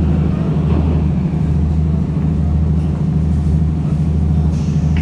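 Train running, heard from an open-air trolley car: a steady low engine drone with a haze of running noise.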